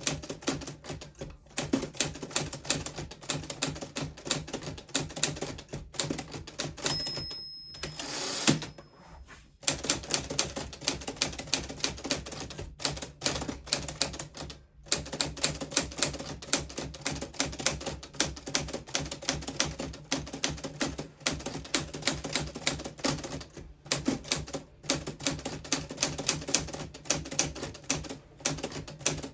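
A 1940s Smith Corona Silent manual typewriter being typed on at a steady clip: fast keystrokes with short breaks. About a third of the way in the typing stops for a bell ding, then a longer sweep as the carriage is returned, and the typing resumes.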